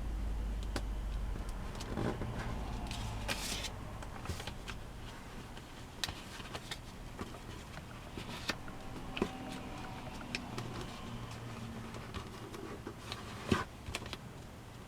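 A sheet of origami paper being folded and creased by hand: scattered soft ticks and rustles of paper, a brief crinkling rustle about three seconds in, and a sharp snap of paper near the end, over a low steady rumble.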